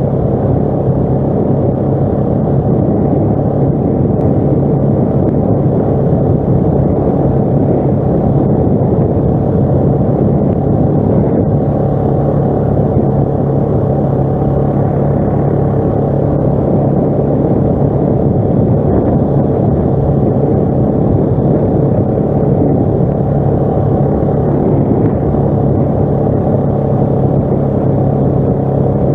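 ATV engine running at a steady pitch, with no revving up or down.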